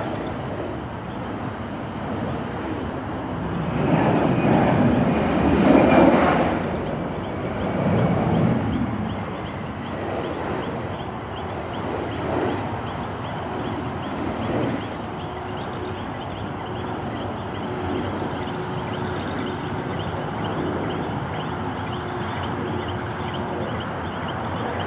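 Aircraft engine noise that swells to a loud peak about five seconds in and eases off over the next few seconds, then settles into a steady rumble with a faint held whine.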